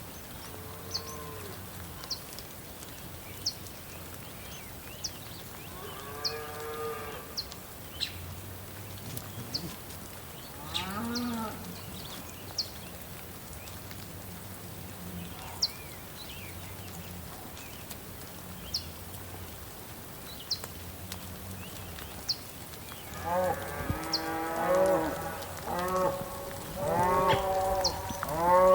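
Cattle mooing: single calls about 6 and 11 seconds in, then several overlapping moos near the end. Throughout, a short high chirp repeats about every second and a half.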